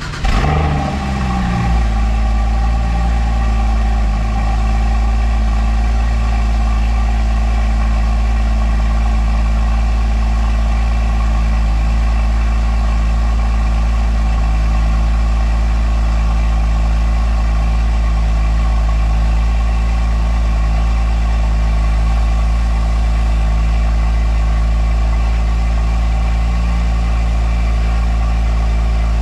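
Porsche Cayman GT4's 3.8-litre flat-six on a cold start. It comes down off the start flare in the first two seconds, then runs at a steady cold idle.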